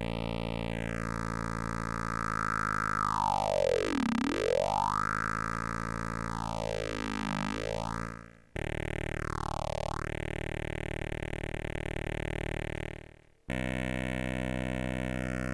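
Sustained synthesizer tone through the Intellijel Atlantix's phaser filter, its frequency swept by hand so the filter notches slide down and back up through the overtones. The tone cuts out and starts again twice, at about 8 and 13 seconds, with a fresh sweep each time.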